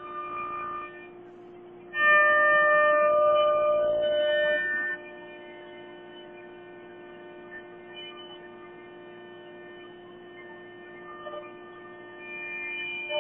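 CNC router running, with a steady whine throughout. A louder, higher multi-tone whine comes in about two seconds in for roughly three seconds, and again near the end.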